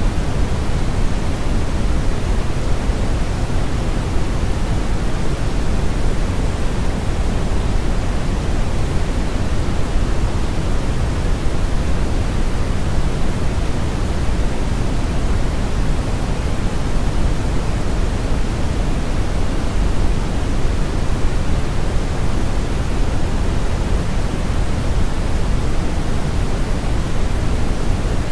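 Brown noise: a steady, unchanging hiss and rumble, strongest in the deep lows and rolling off toward the highs.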